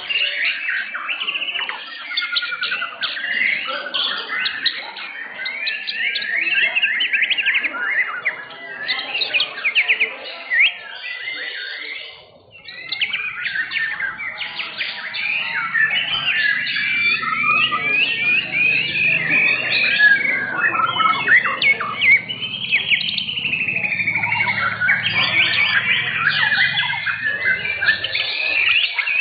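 White-rumped shama (murai batu) singing without pause: fast, varied whistles, trills and chattering phrases, with a short break about 12 seconds in. A low steady hum sits under the song in the second half.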